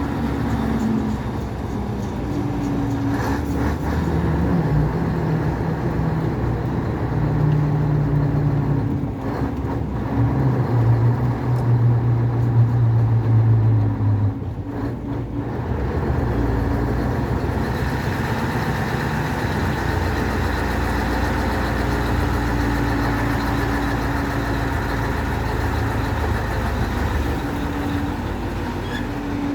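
Scania 143's 14-litre V8 diesel running under load, heard from the cab. Its note climbs in steps through the first half, breaks off briefly about halfway through as a gear is changed, then settles into a steadier, lower run.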